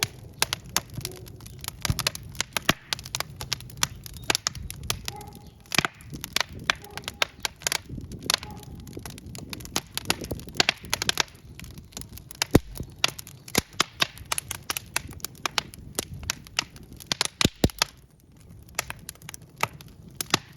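Burning logs in a wood fireplace crackling and popping: many sharp, irregular pops, several a second, over a low steady rumble of the flames.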